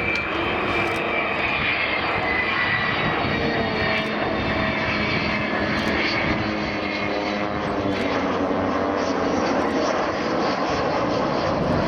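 Aircraft engines in a low, slow formation pass: Avro Vulcan XH558's four Rolls-Royce Bristol Olympus 202 jet engines at low power, mixed with the piston propeller engines of two RV-8 light aircraft flying beside it. A continuous drone, with a whining tone that slides down in pitch during the first few seconds.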